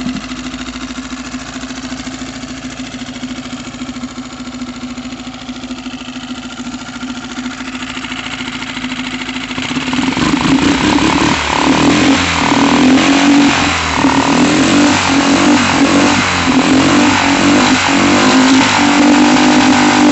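Honda 5 hp four-stroke outboard motor idling steadily, then about ten seconds in the throttle is opened and it runs louder, revving up and down several times.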